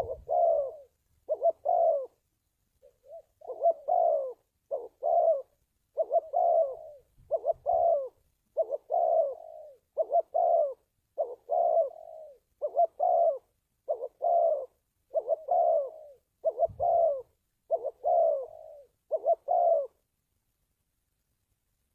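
Spotted dove cooing over and over, short low coos coming in quick groups of two or three, until the calling stops about two seconds before the end.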